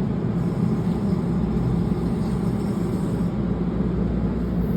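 Commuter train at the station platform, running with a steady low rumble and hum.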